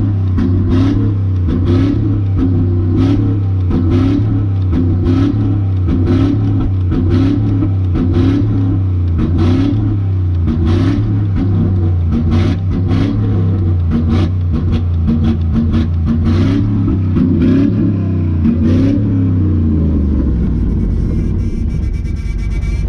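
Cammed truck engine idling with a choppy lope that rises and falls about once a second. The idle note shifts lower about twenty seconds in.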